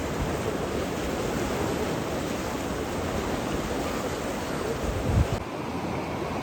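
Steady rushing wash of water, like surf. About five seconds in there is a brief low buffet, and just after it the sound changes abruptly and loses much of its hiss.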